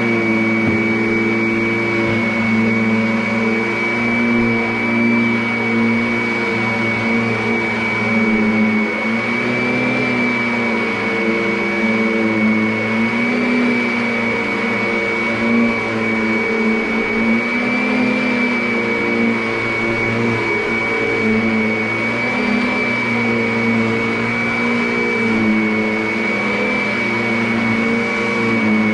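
Vacuum cleaner running without a break: a steady high whine over a lower motor hum whose pitch wavers a little as it works.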